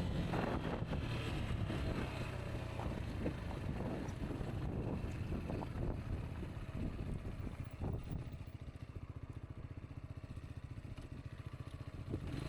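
Rieju Aventura 125's single-cylinder 125 cc engine running on an off-road track, with scattered knocks. About 8 seconds in it drops to a quieter, even low-rev putter.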